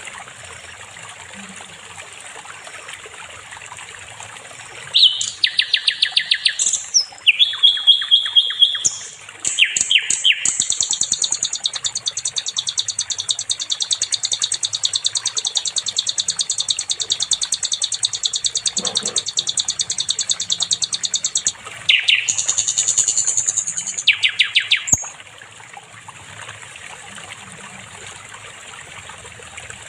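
Sikatan londo flycatcher singing over a faint steady trickle of water. About five seconds in it starts a series of rapid high trills and a short held whistle, then one long fast trill lasting about ten seconds and a last burst of trills. The song stops about twenty-five seconds in.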